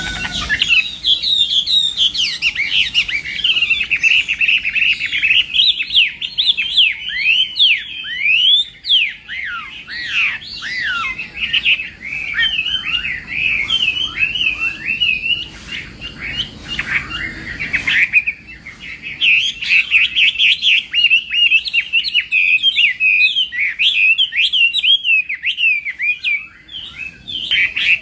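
Chinese hwamei (melodious laughingthrush) singing a long, rapid, varied song of loud whistled notes, slurs and trills, with a short break past the middle.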